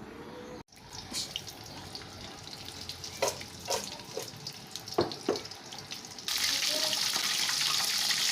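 A few clicks and knocks of cookware, then food frying in hot oil starts sizzling loudly and suddenly about six seconds in, and keeps on.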